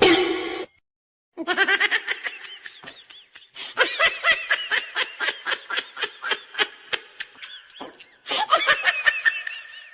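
A person laughing hard in a fast run of short, high-pitched bursts. The laughter breaks off briefly just before the eighth second, then picks up again.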